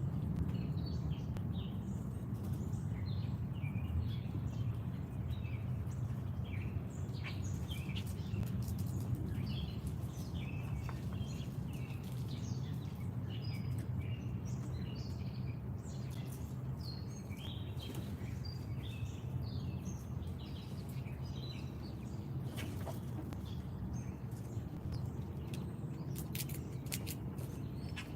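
Wild songbirds chirping and calling over and over, several short calls overlapping, over a steady low background hum, with a few sharp ticks now and then.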